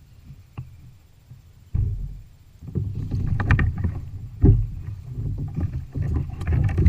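Irregular knocks and low rumbling against a plastic fishing kayak's hull as a hooked halibut is handled alongside, starting suddenly about two seconds in.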